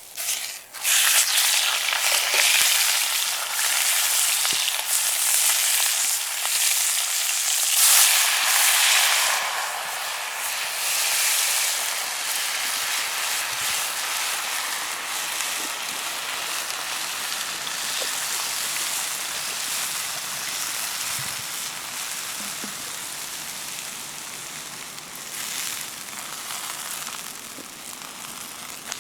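Food sizzling in a hot pan. It starts suddenly about a second in and then slowly dies down.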